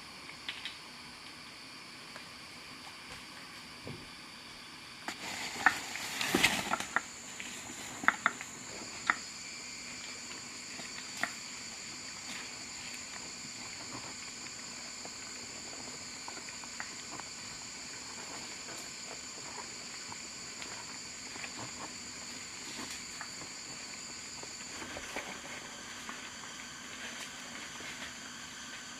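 Forest insects droning steadily at a high pitch, starting about five seconds in. A cluster of sharp clicks and knocks falls between about six and nine seconds in, with one more a little later.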